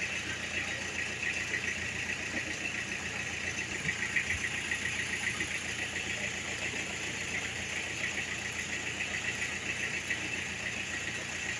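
1999 Toyota Tamaraw FX engine idling steadily, with a fast, even ticking pulse running through it.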